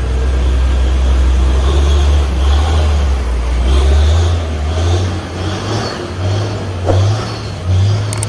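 Road vehicle engine running with a deep, steady rumble; about halfway through its low note rises slightly and begins to swell and fade unevenly, as of an engine working under changing load.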